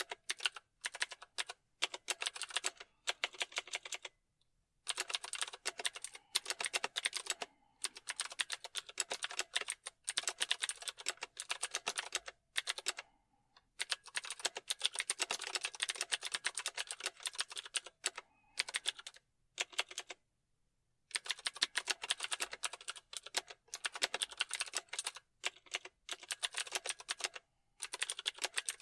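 Typing on a computer keyboard: fast runs of key clicks in bursts, with brief pauses between them.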